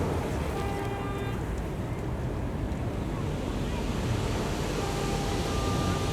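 Ocean surf washing steadily on the beach with wind on the microphone, under faint far-off voices. A short held pitched sound rises above it twice, about half a second in and again near the end.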